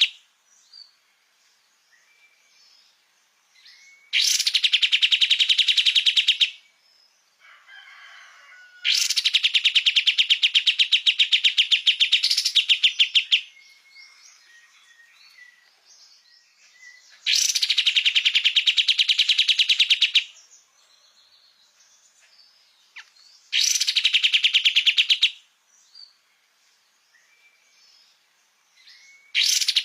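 A kapas tembak songbird singing its rapid-fire song: loud bursts of fast, evenly repeated notes, each lasting two to four seconds and coming every few seconds, with soft short chirps in the pauses between them.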